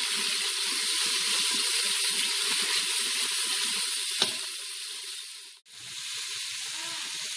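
Chopped onions sizzling in hot coconut oil as a spatula stirs them around the pan, with one sharp tap about four seconds in. The sound briefly cuts out a little before six seconds, then the sizzling carries on.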